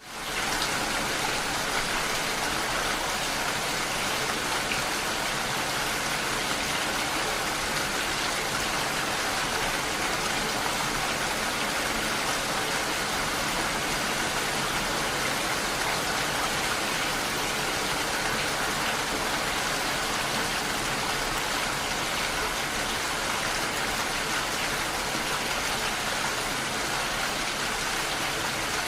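Steady rain falling, an even hiss of many drops with no single drops or thunder standing out; it fades in at the very start and then holds constant.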